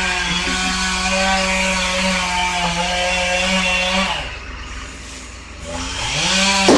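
Chainsaw running at high revs and holding a steady pitch. About four seconds in the throttle is let off and the pitch falls to a low idle, then it revs back up near the end. A sharp clatter comes right at the end.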